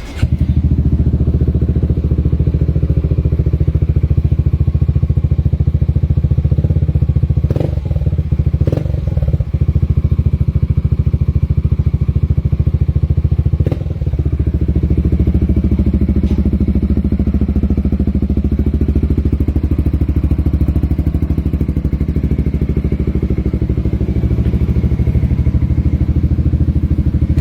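Motorcycle engine running steadily through an aftermarket Proformance exhaust, a loud, even, low exhaust note, broken by a few brief dips and knocks about a third of the way in and again around halfway.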